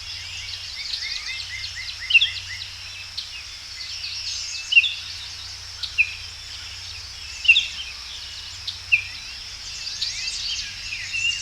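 Several songbirds chirping and singing in short, repeated phrases, over a steady high-pitched hum.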